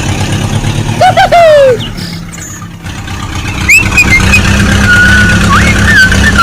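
A steady engine drone, as of the DIY mini tractor running, dips briefly near the middle. Over it come short whistle-like sliding tones: a wavering falling one about a second in, a rising chirp, and a held high tone near the end.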